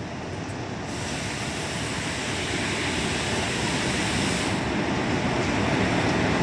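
Train approaching, its rumble growing steadily louder.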